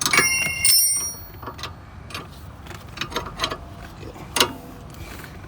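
Steel hand wrenches clinking on the caliper bolt as a second wrench is fitted to stop the bolt spinning: two ringing metallic clanks in the first second, then scattered light clicks and ticks, with a sharper click about four and a half seconds in.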